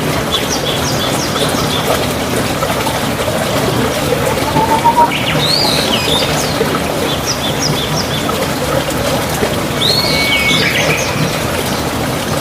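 Wild birds chirping and calling in several short bouts of quick high notes and a few whistled phrases, over a steady background noise.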